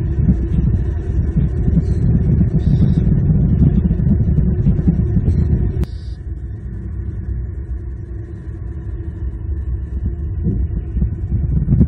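Low, steady rumbling background noise picked up by an outdoor live-cam microphone, with a few short high chirps. The rumble drops sharply about halfway through and then slowly builds again.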